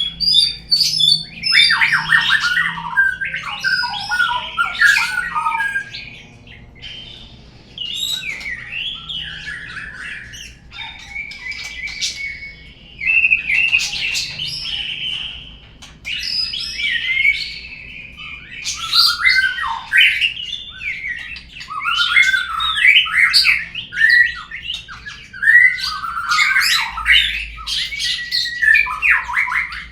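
Murai songbird song used as a lure recording: rapid, varied whistles and chattering calls in dense bursts, with a couple of short lulls.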